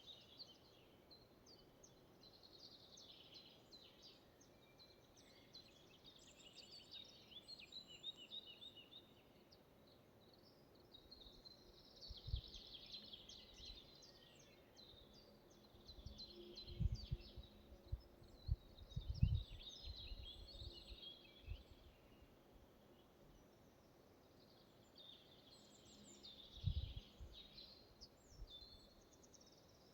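Faint songbird chorus in a forest, many small birds chirping and trilling throughout. A few brief low rumbles or bumps come about halfway through and again near the end.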